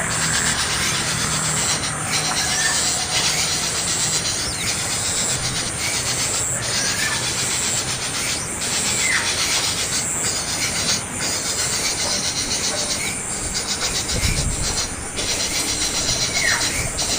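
Young bird begging for food with harsh, raspy calls, broken by short pauses, with a couple of faint falling whistles.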